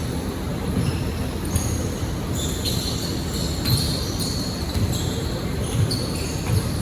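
Basketball game sounds in a gym: the ball thumping as it is dribbled, sneakers squeaking sharply on the court floor, and players moving and shuffling.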